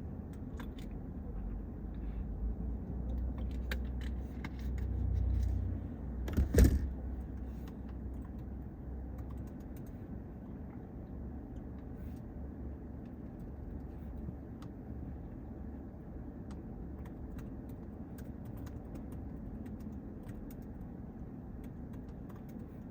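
A car passing, its low engine rumble building to a peak about six seconds in, where a single sharp crack is the loudest sound; then a steady low background with scattered small clicks.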